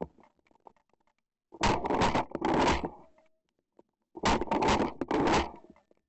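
Two bursts of rustling and crackling as dry field cover is pushed through, each lasting just over a second, the second about a second and a half after the first.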